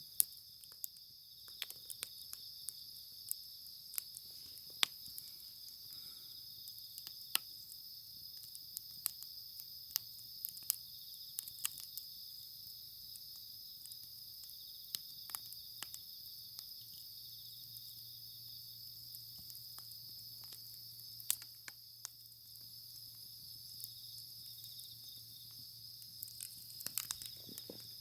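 Wood fire crackling in a Picogrill fire pit, with sharp, irregular pops and a busier run of crackles near the end, over a steady high-pitched chorus of insects.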